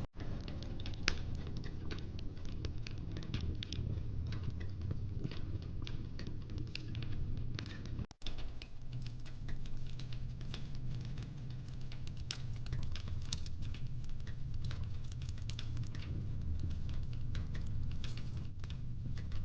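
Fire pit crackling: irregular sharp pops and snaps over a steady low rumble of burning wood. The sound cuts out for an instant about eight seconds in.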